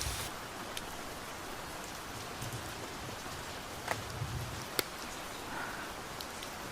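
Tropical rain falling steadily, a continuous hiss with a few sharp ticks of drops or small taps scattered through it.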